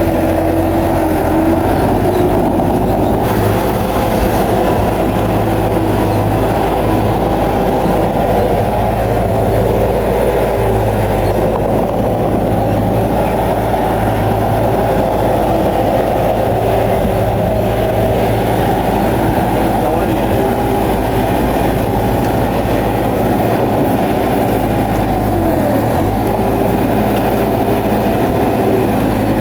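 Bulldozer working: its diesel engine runs steadily under load while its steel tracks clank.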